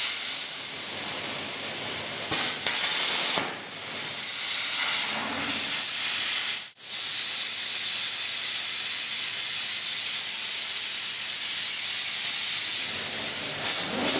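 Air plasma torch cutting 2 mm steel plate with a loud, steady hiss. The hiss breaks off sharply for a moment about halfway through, then carries on.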